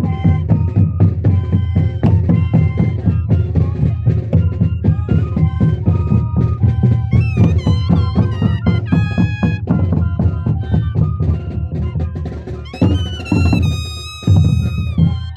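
Moseñada folk music: a troupe of moseño cane flutes playing held melodic notes over a steady, dense drum beat. Near the end the drumming thins while high flute notes are held.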